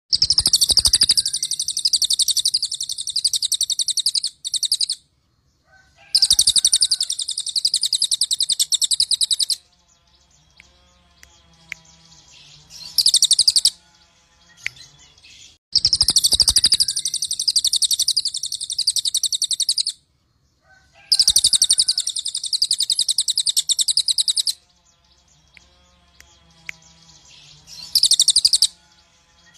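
Crested jay (cililin) calling: loud, high-pitched, rapid rattling chatter in runs of three to four seconds, with a few shorter bursts and brief pauses between them.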